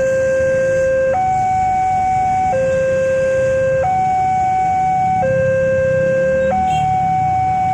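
Railway level-crossing warning alarm sounding a two-tone electronic signal, alternating between a low and a higher tone about every 1.3 seconds, over a low background rumble.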